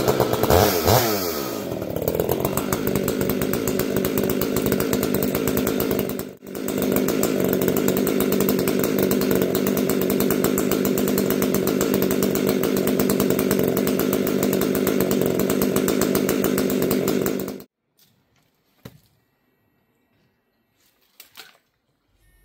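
Two-stroke chainsaw running, its pitch sweeping over the first couple of seconds before settling to a steady drone. It briefly drops out about six seconds in, then cuts off abruptly a few seconds before the end, leaving only a few faint knocks.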